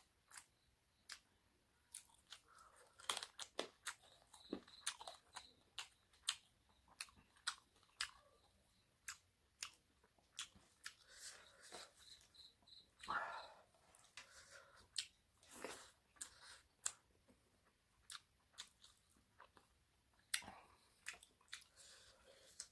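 Close-miked chewing and mouth sounds of a person eating chicken curry and rice by hand: irregular wet smacks and crunches with short pauses between them.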